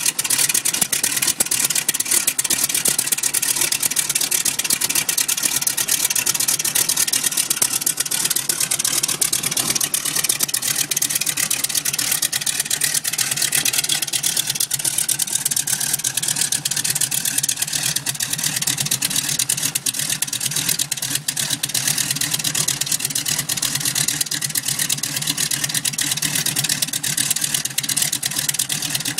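Nine-cylinder radial aircraft piston engine running steadily with a fast, even beat.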